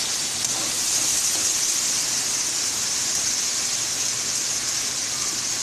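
Chicken pieces and masala sizzling in hot oil in an aluminium kadai: a steady high hiss, a little louder from about a second in, with a small click at the start.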